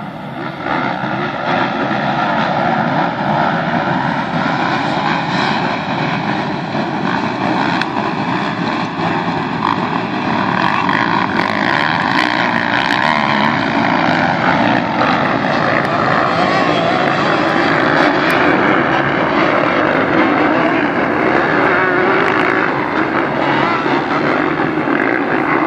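Several motocross bike engines running hard and revving together, their pitches overlapping. The sound builds over the first couple of seconds and then stays loud and continuous.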